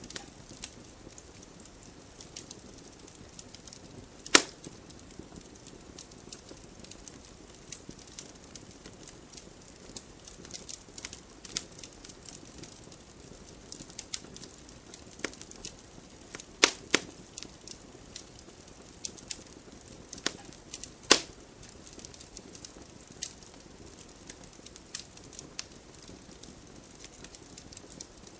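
Wood fire burning in a fireplace: a soft steady hiss scattered with crackles and sharp pops, the loudest pops about four seconds in and twice more in the second half.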